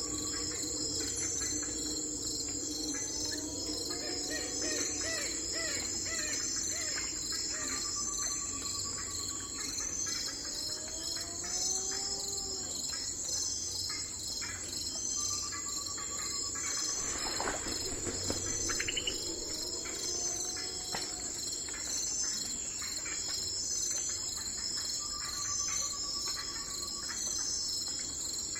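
A steady chorus of crickets trilling, with bird calls over it. A short, level call repeats every several seconds, and softer chirps rise and fall between the repeats.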